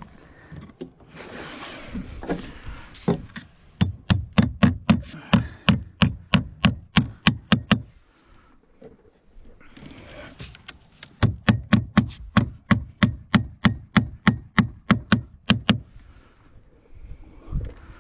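Hammer driving nails to fix fibre-cement artificial slates: two runs of quick, even blows, about four a second, the first starting about four seconds in and the second about eleven seconds in, with a softer scraping noise before each run.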